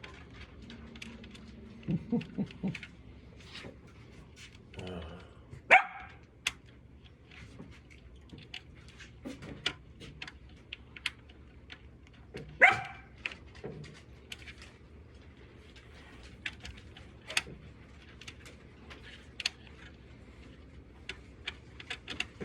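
A dog barking: a short run of barks about two seconds in, then single sharp barks near six seconds and again near thirteen seconds. Faint small clicks and taps are scattered between them.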